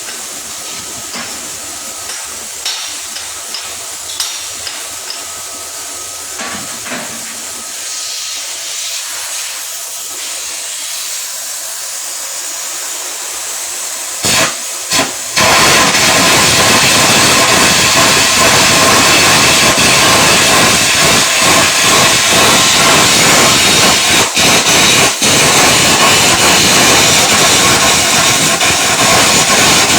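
Arc welding: the electric arc is struck briefly twice about halfway through, then held, giving a loud, steady crackling hiss that runs on without a break. Before the strike there is only a quieter low hiss.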